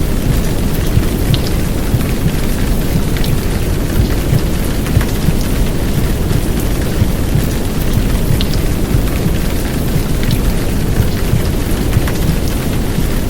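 Heavy downpour rain over a steady, deep low rumble of womb-sound noise, with scattered drop ticks; a continuous even wash with no breaks.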